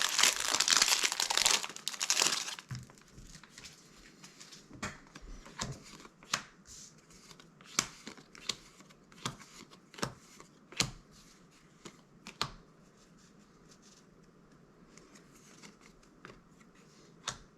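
Magic: The Gathering booster pack wrapper crinkling loudly as it is torn open for the first two seconds or so, then a string of short sharp clicks about half a second to a second apart as the cards are handled one by one, thinning out about twelve seconds in, with one last click near the end.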